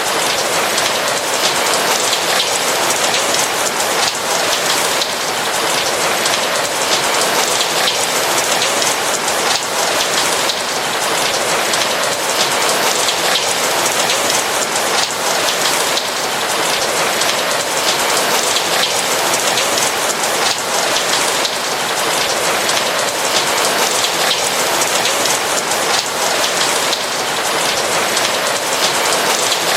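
Steady rain falling, a dense, even hiss of countless drops that holds level throughout, with no thunder.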